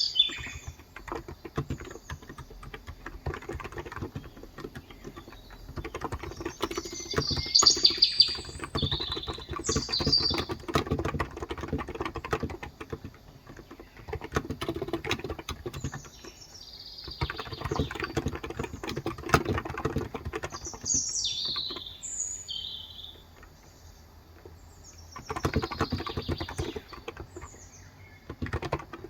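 Typing on a Cox Endeavour electro-capacitive keyboard with 35 g switches, in runs of rapid keystrokes broken by short pauses. Birds chirp over it several times.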